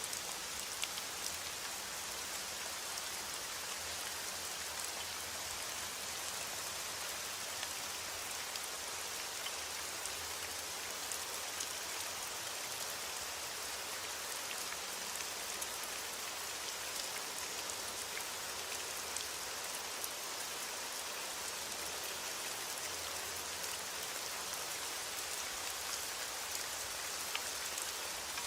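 Steady rain falling, with a constant hiss and many small drop ticks scattered through it.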